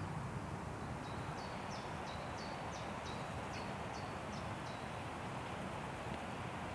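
Steady wind rushing through forest trees, with a small bird repeating a short, high call about three times a second from about a second in until a little past the middle.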